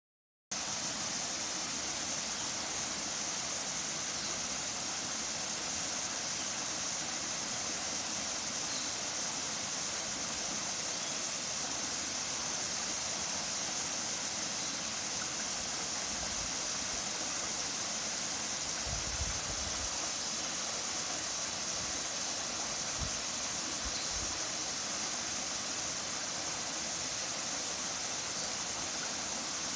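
Waterfall: a steady rush of falling water, a hiss brightest in the high end. A few brief low thumps come in the second half.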